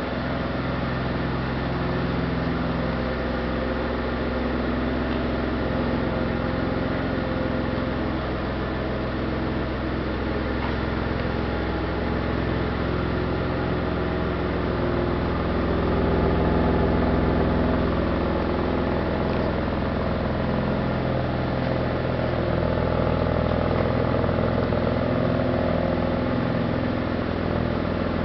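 1992 Dodge Stealth R/T Turbo's 3.0-litre twin-turbo V6 running steadily, swelling slightly in loudness about halfway through.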